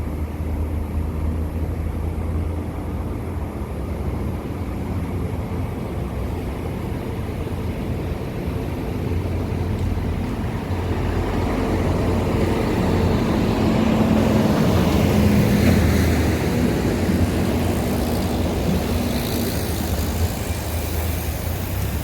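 Road traffic: a large vehicle's engine running steadily, with a passing vehicle swelling louder about two-thirds of the way through and then easing off.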